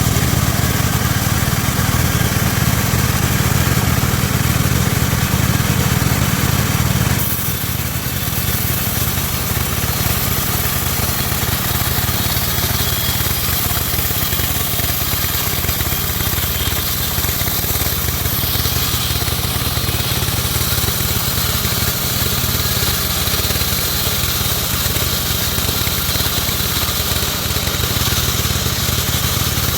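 Homemade band sawmill running steadily while sawing teak, a loud mechanical drone. About seven seconds in the low hum drops and a higher hiss comes up.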